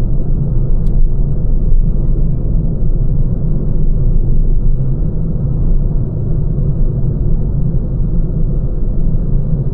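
Steady low driving rumble of a Lancia Ypsilon on the move, with one sharp click about a second in.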